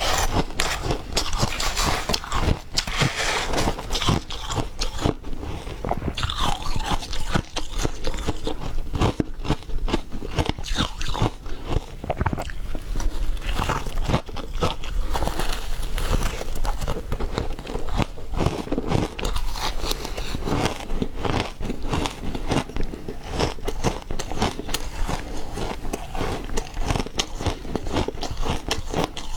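Refrozen ice being bitten and chewed close to the microphone: dense, irregular crunching and crackling throughout.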